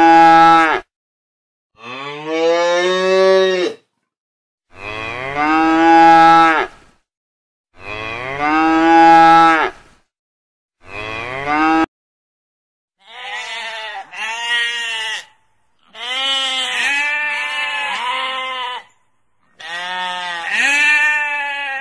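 Cattle mooing: about five long moos a second or so apart, some rising in pitch, the last cut off short. Then, from about thirteen seconds in, a sheep bleating several times in higher, wavering calls.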